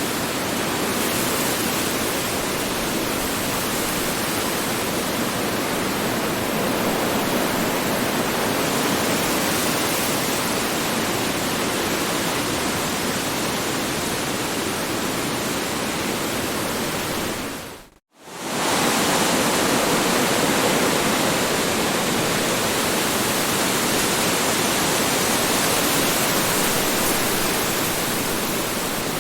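Strong wind as a steady, loud rushing noise. About 18 seconds in it fades out to a moment of silence and then rises straight back, as at the seam of a looped recording.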